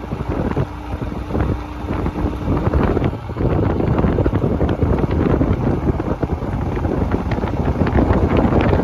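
Strong wind buffeting the microphone of a moving motorcycle, a rough fluttering rush that gets louder about three seconds in.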